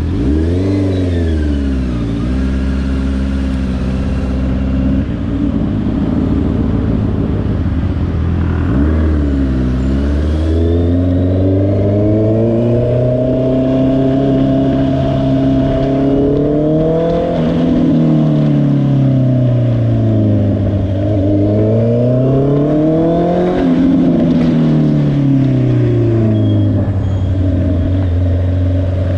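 2022 Honda CBR650R's inline-four engine, idling with a quick throttle blip about a second in and another around nine seconds. Its revs then climb and fall smoothly twice before dropping back to idle near the end.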